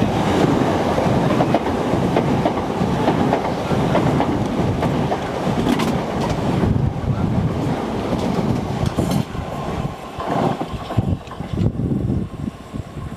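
Southern Class 377 Electrostar electric multiple unit running past close by along the platform, its wheels clattering over the rail joints. The noise drops away suddenly near the end.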